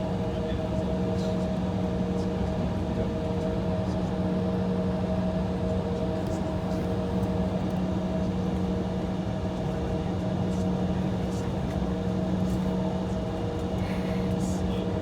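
Steady cabin hum inside an Embraer E175 airliner idling on the taxiway: the engines and cabin air system running, with a few steady tones over an even rushing noise.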